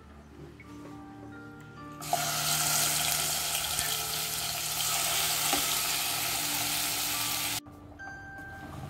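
Masala-marinated chicken pieces sizzling as they shallow-fry in a little oil, a loud steady hiss that starts suddenly about two seconds in and cuts off abruptly near the end. Faint background music can be heard before and after it.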